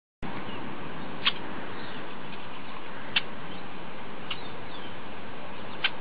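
Four short, high chirps from small birds over a steady background hiss.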